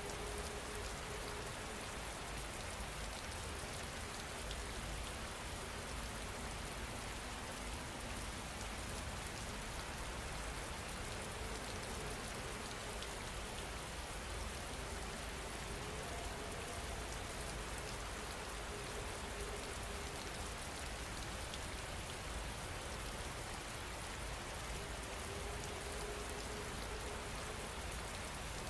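Steady rain falling, an even hiss, with a faint low tone coming and going a few times.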